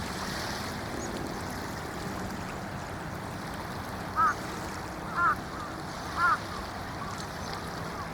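Small waves washing in on a sandy bay beach at low tide, a steady soft wash. About four seconds in, three short, loud calls sound about a second apart, each rising then falling in pitch.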